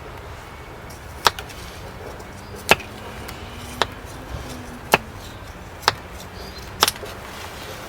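Firewood being chopped: six sharp strikes about a second apart, the last a quick double.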